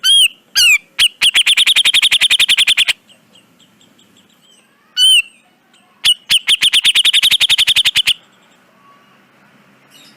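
Cucak jenggot (grey-cheeked bulbul) calling: a couple of sharp calls, then a fast harsh rattle of about a dozen notes a second lasting nearly two seconds. About five seconds in, a sharp call comes again, followed by a second rattle of about two seconds.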